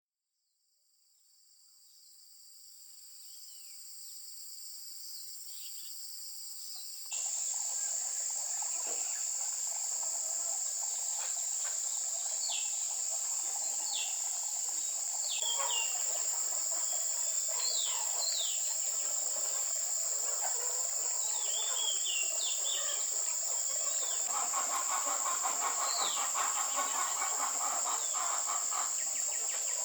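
Outdoor insects keeping up a steady high-pitched shrill, with birds chirping in short, falling calls over it. The sound fades in at the start and gets louder about seven seconds in; a quick pulsing trill comes in near the end.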